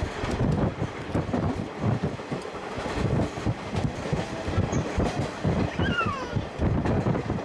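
Train running at speed, heard from inside an old-style passenger coach hauled by a C11 steam locomotive: a steady rumble with the clickety-clack of the wheels over the rail joints.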